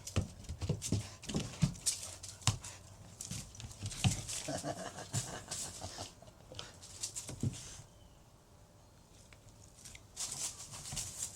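A puppy and dogs moving about: scattered clicks and scuffles, with a few short animal noises about four to five seconds in. It goes quieter for a couple of seconds near the end.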